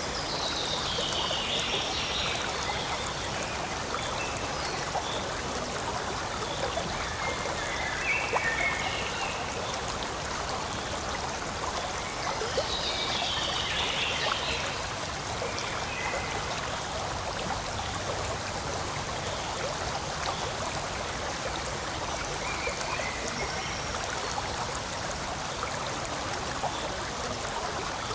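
Forest stream flowing steadily, a constant trickling rush of water. A few short high chirping calls sound over it, with longer falling calls about a second in and again about halfway through.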